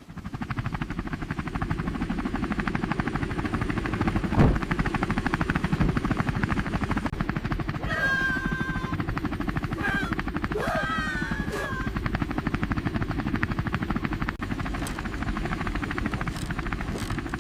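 Helicopter rotor chopping steadily in a fast, even pulse. Two short, wavering, high-pitched calls cut in over it, about eight and eleven seconds in.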